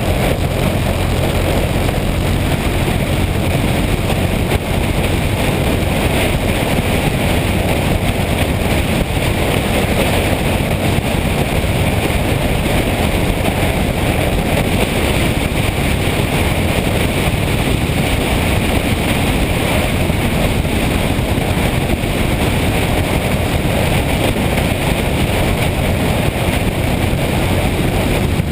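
A motorcycle running at speed, heard under steady wind rush on the microphone.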